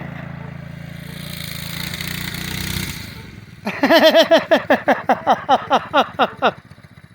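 Homemade trike's engine running steadily, then fading away about three seconds in. It is followed by a rapid run of short calls that rise and fall in pitch, about four or five a second, for roughly three seconds.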